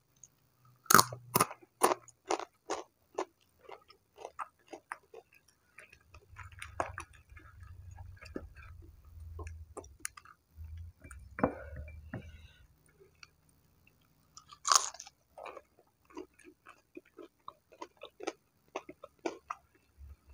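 Close-up chewing of crispy battered fried tempeh, a run of short crunches about two or three a second. The loudest crunches come about a second in and again about three-quarters of the way through.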